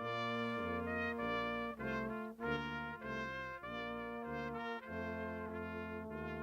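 A brass ensemble playing a slow chordal piece, several instruments sounding together with the chords changing about every half second.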